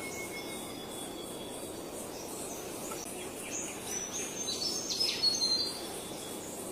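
Birds chirping over a steady background hiss, with a few held high whistles early on and a busy run of quick high chirps and short slides from about three and a half seconds in to about six, the loudest part.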